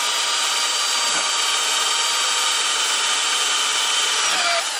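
A power tool running at a steady high-pitched whine, cutting off sharply near the end and briefly starting again.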